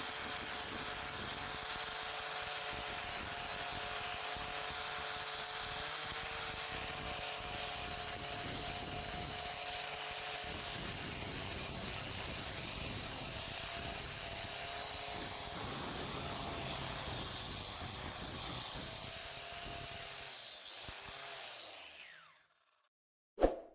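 Electric power tool running steadily, then winding down and stopping about 22 seconds in. A single sharp clink follows just before the end.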